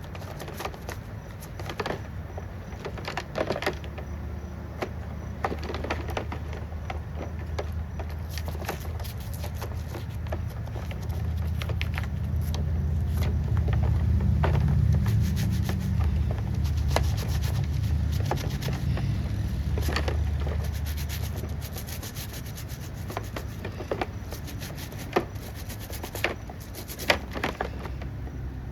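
Scrubbing and scraping grime off old STIHL 020T chainsaw parts in short, irregular scratchy strokes. A low rumble swells through the middle and fades again.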